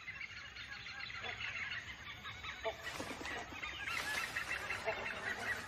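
Hornbills calling, two short honks a couple of seconds apart, over a dense high chirping of the rainforest.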